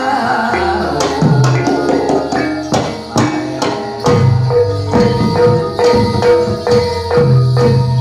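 Jatilan accompaniment music: held, struck metal tones over brisk hand-drum beats and jingling percussion, at a steady lively pace.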